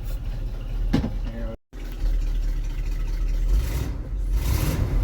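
The Chrysler 318 V8 of a 1979 Winnebago Class A motorhome running with a deep, lumpy exhaust rumble. The sound cuts out completely for a split second about a second and a half in.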